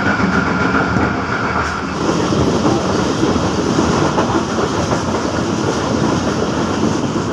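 Passenger express train running at speed, heard from an open coach doorway: a steady loud rush of wheels on the rails.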